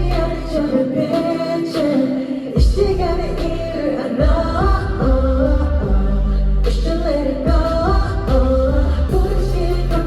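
A pop song performed live: a singer's melodic vocal over a backing track with deep bass that drops out briefly and returns.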